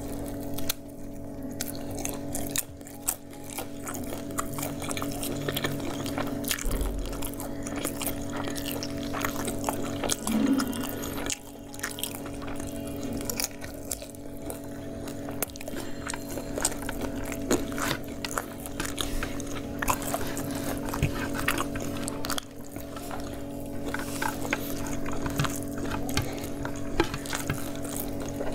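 Close-up eating sounds: a person chewing chicken biryani and fried chicken eaten by hand, with many small wet clicks and mouth smacks. A steady low hum runs underneath.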